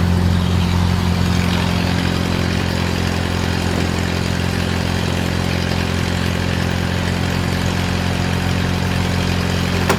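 Engine idling steadily with a low, even hum, with one sharp click just before the end.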